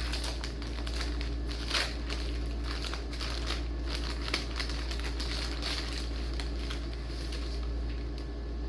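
Packaging crinkling and rustling in irregular crackles as it is opened and handled by hand, over a steady low hum.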